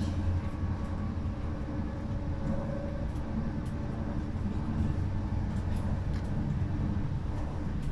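Steady low rumble of a moving passenger train heard from inside the carriage, its wheels running on the rails.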